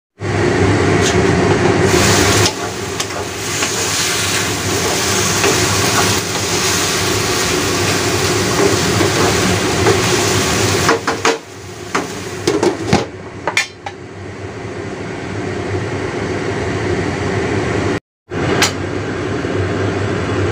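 Shiitake mushrooms frying in a stainless steel wok over a gas burner, a steady sizzling hiss. About halfway through, a wooden spatula knocks and scrapes against the wok several times.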